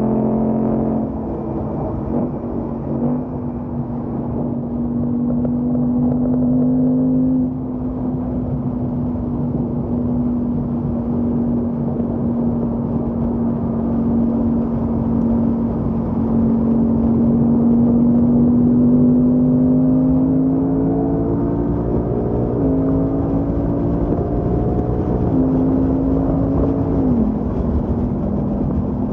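Ford Mustang Mach 1's 5.0-litre V8 under load at track speed, heard from inside the cabin with tyre and wind noise. The engine note holds and slowly climbs, then steps and drops sharply several times in the last ten seconds as the car shifts up through the gears.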